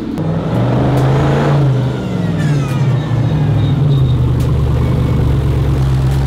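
Aston Martin engine starting: it catches just after the start, flares up in revs for about a second and a half, then settles back to a steady idle. About four seconds in, a deeper engine idle takes over.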